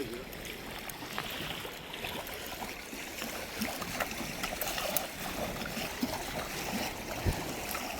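Water lapping and trickling steadily, with scattered small clicks and knocks.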